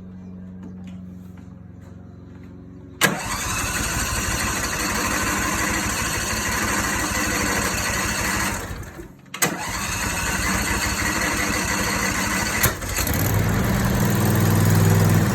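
Briggs and Stratton V-Twin 22 hp 656 cc garden tractor engine being cranked by its electric starter without starting, in three attempts separated by clicks. The first attempt begins suddenly about three seconds in. The last attempt, near the end, is louder and deeper.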